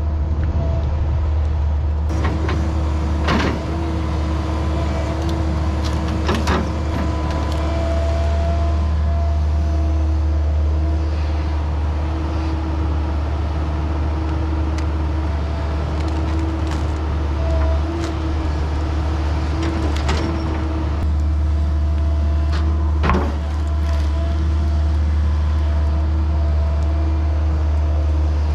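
A heavy machine's engine running steadily with a constant whine over it, as used for land clearing and stump removal, with a few sharp knocks, the clearest about 3, 6 and 23 seconds in.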